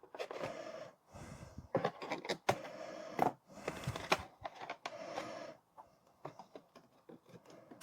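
Cardboard and plastic packaging handled as a toy dinosaur is pulled free of its box: irregular rustling scrapes broken by sharp clicks and knocks.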